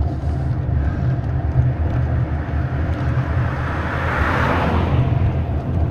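Steady low rumble of vibration on the camera mount while riding a bicycle over a rough road, which the rider puts down to the vibrating armrests or the DJI camera mount. A hissing swell rises about three seconds in and fades near the end.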